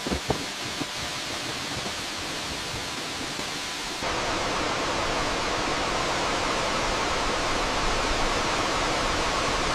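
Steady rush of waterfall water that turns louder and fuller about four seconds in, with a couple of faint knocks just after the start.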